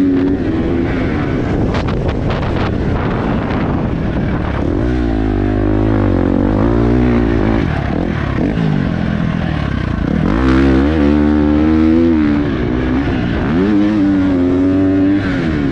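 Motocross bike engine revving up and down as it is ridden around a dirt track, its pitch rising and falling again and again with the throttle and gear changes, over a steady rush of wind noise.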